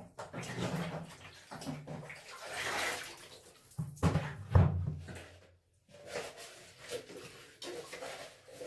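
Clothes being washed by hand in a tub of water: irregular sloshing and splashing, loudest about four and a half seconds in, with a brief pause just before six seconds.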